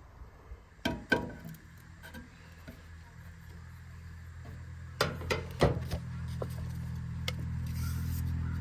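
A few light knocks and clicks of handling, over a steady low hum that grows slowly louder.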